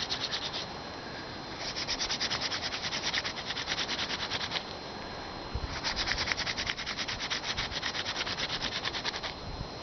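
Hand-drill friction fire: a wooden spindle spun back and forth between the palms, grinding in its socket on a wooden hearth board to burn it in, a fast, even scraping rub. It comes in three bouts, with a break of about a second after the first and the second.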